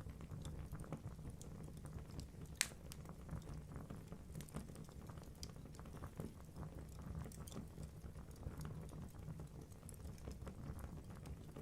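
Wood fire burning in a fireplace: logs crackling with many small irregular snaps over a steady low rumble of the flames, and one sharp, louder pop about two and a half seconds in.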